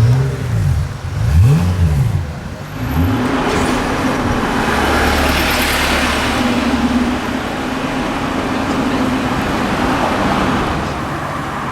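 Car engine revving: its pitch rises and falls several times over the first few seconds, then settles into a steady drone under a swell of road noise that peaks around the middle and fades toward the end.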